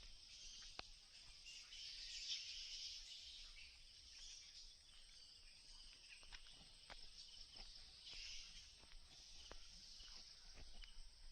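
Faint, dense chorus of insects and birds in the forest, a continuous high-pitched buzz that swells and fades, with a few light clicks scattered through it.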